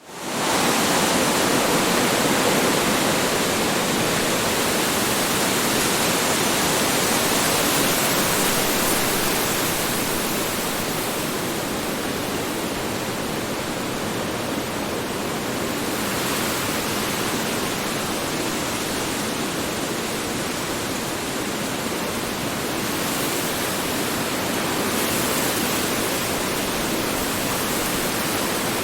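Strong wind blowing in a steady, even rush with slow, gentle swells. It fades up quickly at the very start.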